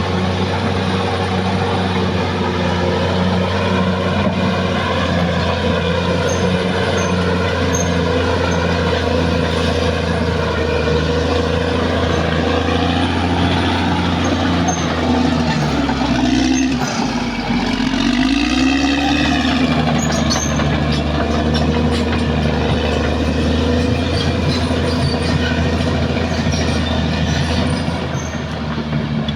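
Caterpillar D6R XL bulldozer's diesel engine running steadily at working revs; about halfway through the engine note dips and then comes back up.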